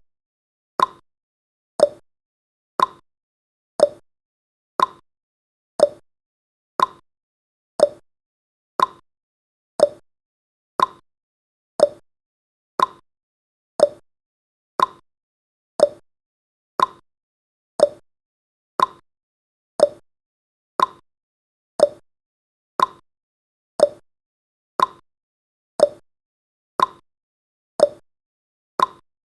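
Countdown timer's tick sound effect: a sharp clock-like tick once a second, steady and even.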